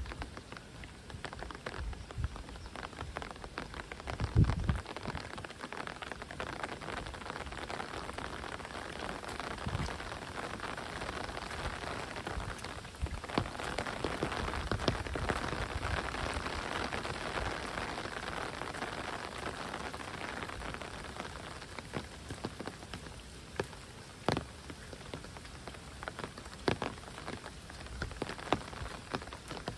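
Heavy rain falling steadily: a dense hiss with many sharp, scattered drop strikes, briefly heavier in the middle. There is a low thump about four seconds in.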